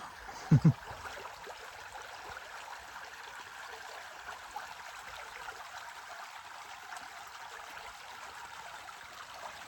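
Small river rapids: water running steadily over stones in a shallow stretch of river. A couple of brief low thumps about half a second in.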